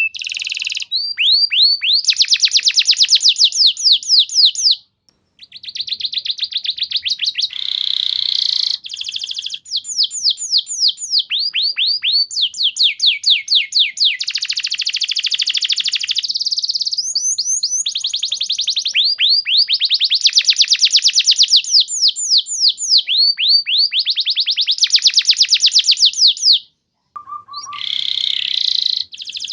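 Canary singing long, fast trills: rows of quick repeated downward-sliding notes, the phrases changing speed one into the next, with two brief pauses, about five seconds in and near the end.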